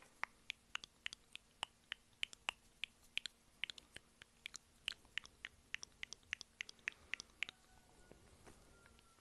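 Close-miked eating mouth sounds: a rapid, irregular run of sharp wet clicks from chewing, about four a second, that stops about seven and a half seconds in.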